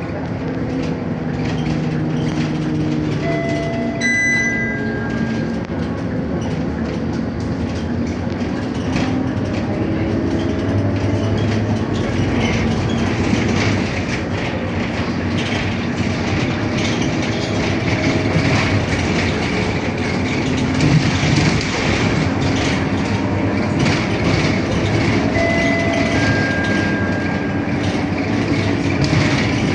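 Scania K230UB single-deck bus on the move: steady engine and road noise, with the drivetrain's whine rising and falling as the bus changes speed. A short electronic chime sounds twice, about four seconds in and again near the end.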